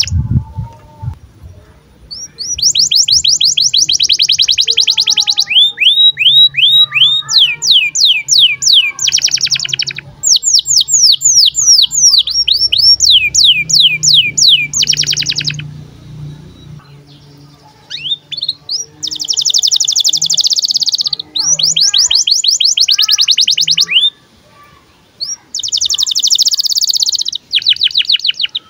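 Male canary singing in phrases: fast trills of repeated downward-sweeping whistled notes and dense buzzing rolls, with short pauses between phrases.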